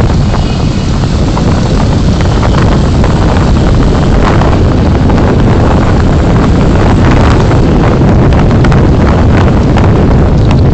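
Steady road and wind rumble of a moving car, picked up by the dashcam's microphone, with a few faint knocks.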